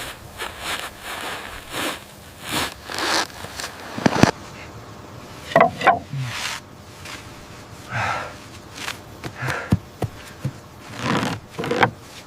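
A series of irregular knocks and short scrapes, with the sharpest knocks about four and six seconds in.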